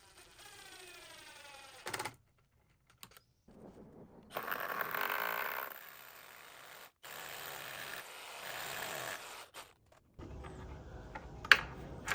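Power drill driving screws through a pocket door track into the header, the motor spinning up with a rising whine, in several short bursts with abrupt cuts between them.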